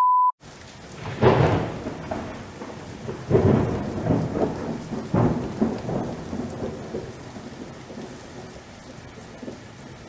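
A brief steady beep, then thunder rumbling over steady rain: three loud rolls about two seconds apart, dying away toward the end.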